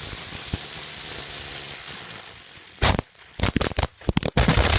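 Crackle jack fireworks going off: a loud hiss fades away over the first three seconds, then a rapid run of sharp cracks and pops starts near the end.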